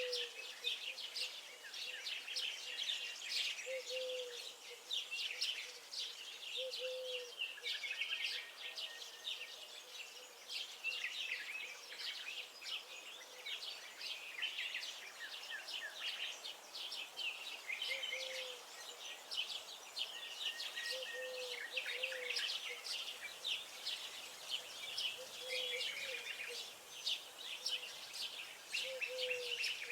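Songbirds chirping and singing in a dense, overlapping chorus of short high notes and trills. A short low call repeats every few seconds underneath.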